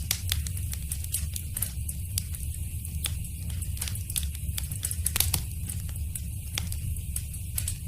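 Wood fire burning in a fireplace: a steady low rumble of flames with irregular sharp crackles and pops, a cluster of them about five seconds in.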